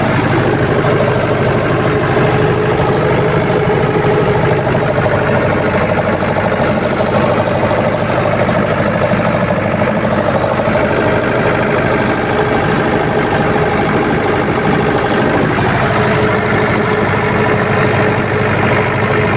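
Generator engine running steadily at a constant speed, with an even hum and no change in pitch.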